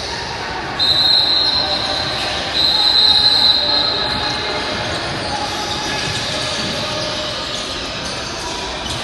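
Referee's whistle blown in two long, shrill blasts over the gym's background of voices and bouncing balls.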